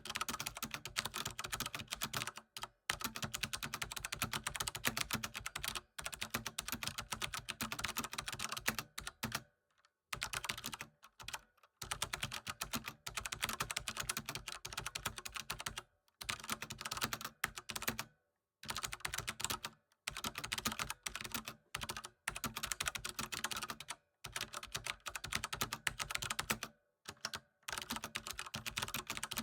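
Computer keyboard typing: rapid, continuous keystrokes in runs of a few seconds, broken by short silent pauses.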